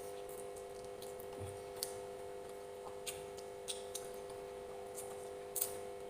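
Close-up eating sounds: scattered wet mouth clicks and smacks from chewing, the sharpest a little after five seconds in, over a steady low hum.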